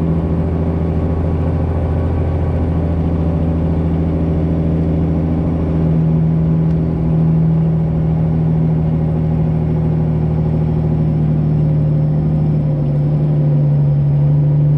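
Six-cylinder Detroit Diesel 12.7 of a straight-piped Freightliner Classic XL running at low speed, a steady low drone. Its pitch shifts slightly about six seconds in and again near the end.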